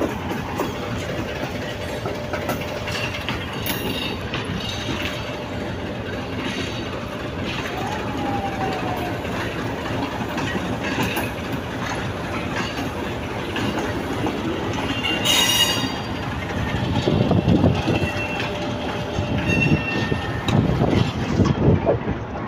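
Passenger train coaches rolling past close by: a steady rumble of wheels on rail with clattering knocks, and short high-pitched wheel squeals now and then, more of them in the second half.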